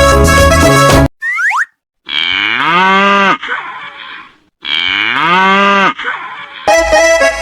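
Cattle mooing twice, two long moos that rise and then fall in pitch, as a sound effect in a break in upbeat children's song music. A short sliding cartoon boing comes just before the first moo. The music stops about a second in and starts again near the end.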